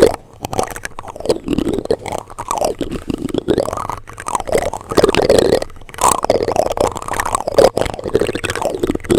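Plastic utensils rubbed and scraped directly against a microphone: close, irregular scraping and rubbing with frequent sharp knocks.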